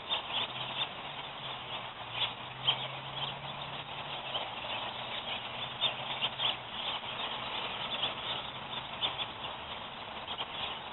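Small wooden sticks being handled and set in place: light, irregular clicks and taps as the bait sticks go into a stick-built Arapuca bird trap.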